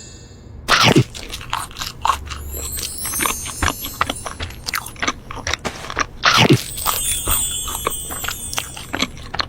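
Crunchy food being bitten and chewed: a dense run of sharp crunches and crackles, loudest about a second in and again around six seconds in.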